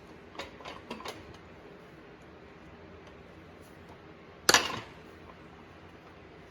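Metal tools and parts clinking a few times in quick succession, then one loud metallic clank with a brief ring about four and a half seconds in.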